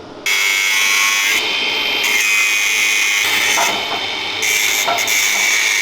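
Angle grinder cutting through a steel tab: a harsh, high-pitched grinding noise that starts about a quarter second in and eases twice briefly as the cut goes on.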